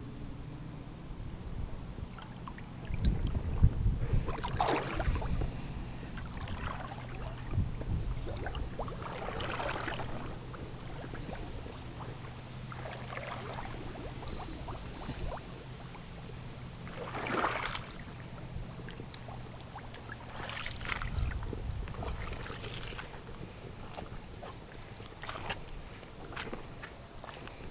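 Irregular splashes and sloshes of river water, with low thumps about three seconds in and again near twenty seconds in.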